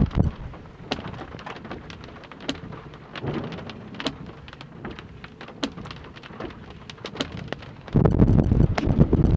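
Raindrops from an incoming thunderstorm landing close by, heard as many separate sharp ticks over a soft rain hiss. About eight seconds in, a loud low rumble sets in abruptly.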